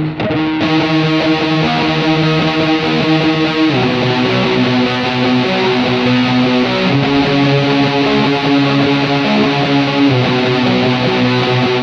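Music: the instrumental intro of a rough home-demo rock song, with electric guitar playing held chords that change about every three to four seconds.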